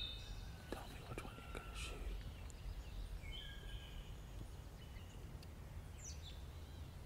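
Quiet woodland ambience with a steady low rumble, over which birds give a few short, high whistled notes and one quick falling note near the end, with a few faint soft clicks early on.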